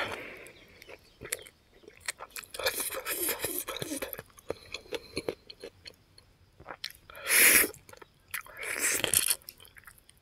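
Close-up chewing and gnawing on fried pig feet, with wet smacking clicks from mouth and fingers. Two louder breathy bursts come about seven seconds in and again about a second and a half later.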